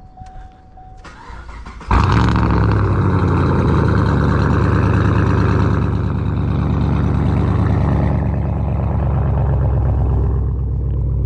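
2010 Camaro SS V8 with straight pipes being started: the starter cranks for about a second, the engine catches loudly about two seconds in with a rev flare, then settles into a steady, rumbling cold idle.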